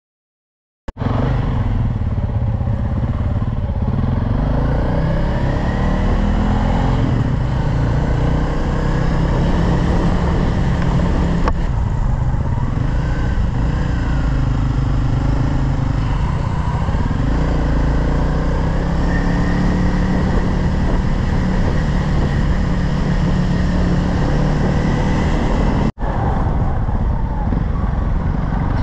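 Single-cylinder dual-sport motorcycle engine running while riding, its pitch rising and falling with the throttle over a heavy low rumble. It starts abruptly about a second in and cuts out for a moment near the end.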